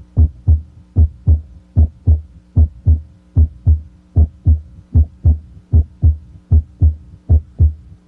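Normal heart sounds heard through a stethoscope at the mitral area (cardiac apex): a steady lub-dub, S1 then S2, about 75 beats a minute, over a faint steady hum. At this spot S1, from mitral valve closure, is usually the louder of the pair.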